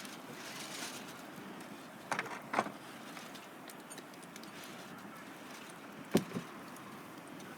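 Campfire burning, with a steady hiss and a few sharp pops and cracks from the wood: two close together about two seconds in and a louder one about six seconds in.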